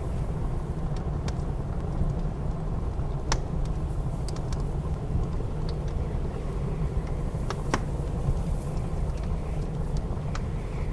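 Wood fire crackling in a fireplace, with scattered sharp pops every second or so, over a steady low rumble of blizzard wind.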